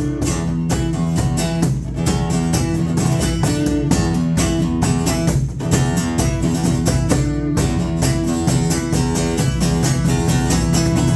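Live band music without singing: guitars strummed over bass and a steady beat.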